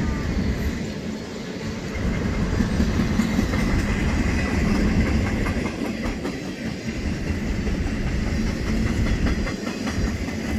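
Freight train cars rolling past: a steady rumble of steel wheels on rail with clickety-clack over the rail joints.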